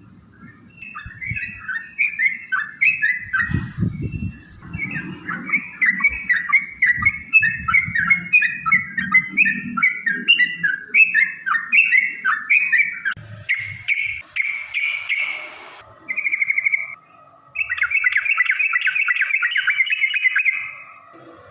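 Yellow-vented bulbul (trucukan) singing in a long, fast run of bubbly chirped notes, ending in a rapid rattling trill over the last few seconds, with a low rumble underneath.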